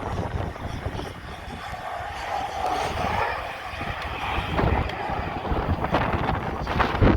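Airplane engine droning as it passes, its hum swelling and then fading over a few seconds, with wind rumbling on the microphone.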